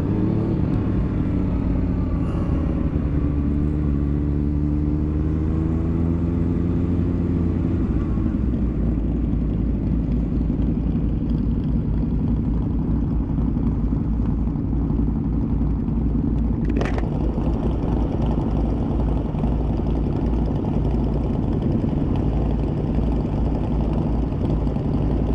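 Motorcycle engine running while riding, its pitch rising and falling over the first several seconds, then settling into a steady low rumble under wind noise. A single sharp click comes about two-thirds of the way through.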